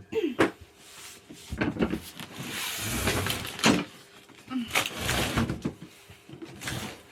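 Knocks, clatter and scraping of a freshly assembled gaming chair being lifted and moved, in several bursts.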